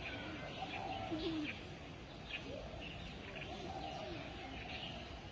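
Small birds chirping in short, scattered calls.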